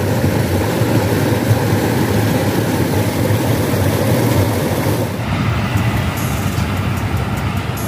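A steady low rumbling noise. About five seconds in it gives way to a passenger train passing at a distance across open fields, with a run of evenly repeated clicks from the wheels.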